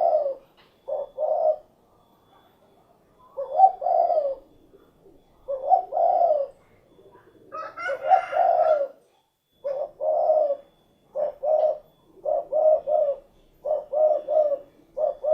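Spotted dove (derkuku) cooing in repeated short phrases of two or three low notes, a phrase every second or two. One rougher, higher phrase comes about eight seconds in.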